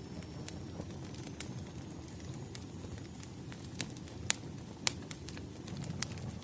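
Wood fire crackling: a steady low rumble with irregular sharp pops, the loudest a little past four seconds and near five seconds in.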